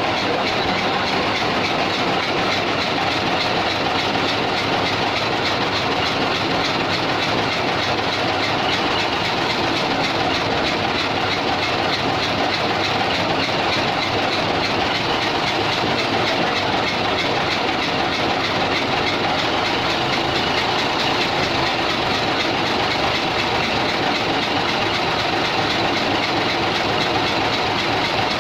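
Cummins diesel engine running steadily and loudly at a constant speed.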